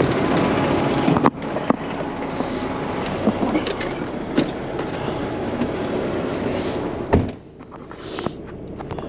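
Heavy-duty wrecker's diesel engine running under load with scattered metallic clanks and knocks. About seven seconds in a heavy thump, then the noise drops away to a lower rumble.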